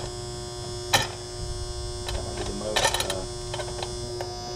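Air conditioner condensing unit running with a steady electrical hum, after its failing run capacitor has been replaced. A sharp click about a second in and a short run of clicks around three seconds in.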